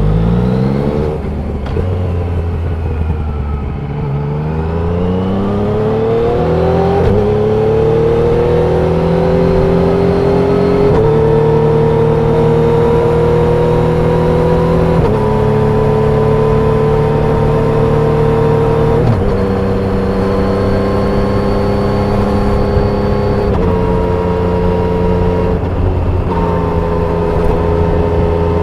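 Yamaha MT-09 SP's inline three-cylinder engine and exhaust under way: the revs climb through the first seven seconds, then the engine holds fairly steady revs, with a short break and change in pitch every few seconds as gears are shifted.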